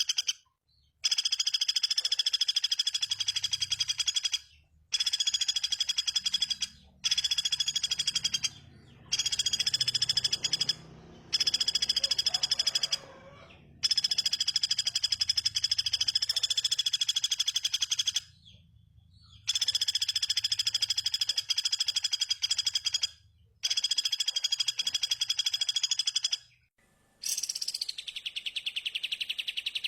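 Recorded bird song played for training cage birds: fast, buzzing trills repeated in phrases of a few seconds, each cut off sharply by a short silence. Near the end a different call of quick falling whistles comes in.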